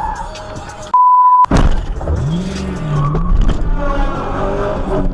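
A short single-tone censor bleep about a second in, then car noise with a sudden loud start and a pitch that rises and wavers.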